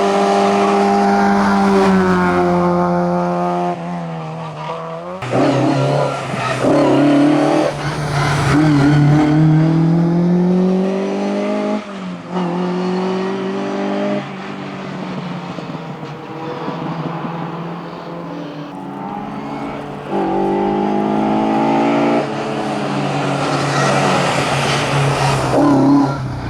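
Rally-prepared cars accelerating at full throttle up a hillclimb. For the first few seconds a Seat Marbella revs out, then a Seat 124 2000 pulls hard through the gears. The engine pitch climbs with each gear and drops sharply at every shift.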